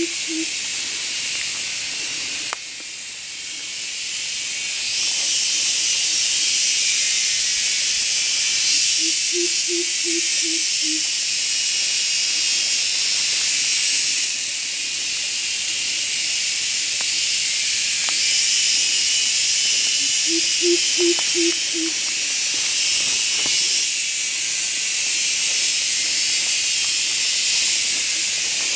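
Dense, steady high-pitched insect chorus, cicada-like, droning without a break. About every ten seconds a low call of five or six quick hoots cuts through it: near the start, around the middle and again later on.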